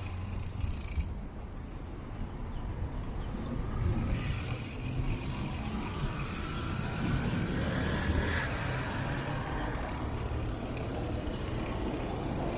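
Steady wind rumble on the microphone and tyre noise from a bicycle riding along a wet path.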